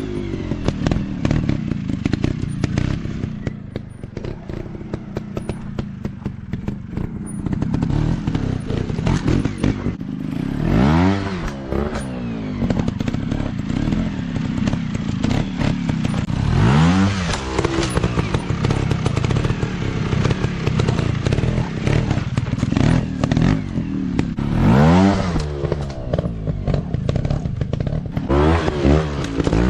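Motocross dirt bike engines running off-road at low revs, blipped up sharply several times (about 11, 17 and 25 seconds in and near the end), with the rattle and clatter of the bikes working over rough ground.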